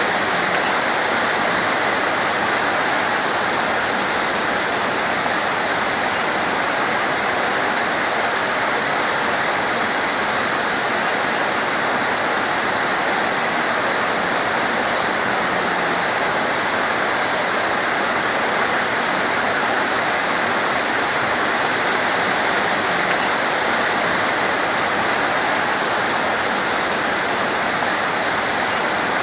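Torrential rain falling in a steady, unbroken rush.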